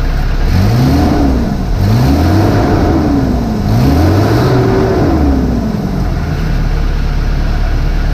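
Van engine revved three times, each rev rising and falling back, then settling to a steady idle. The freshly patched exhaust runs with no leak whistling.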